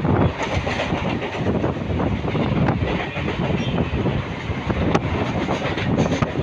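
Mumbai suburban local train (an electric multiple unit) running along the track, heard from inside a coach: a steady rumble of the moving carriage with many irregular rattles and knocks.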